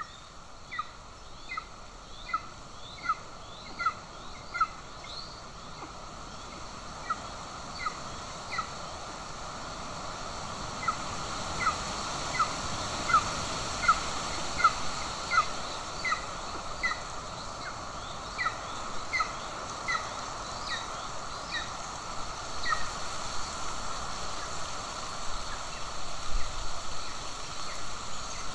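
Golden eagle at the nest giving series of short, sharp, rising call notes, about one or two a second, in several bouts with short pauses between. A steady hiss lies under them, swelling in the middle.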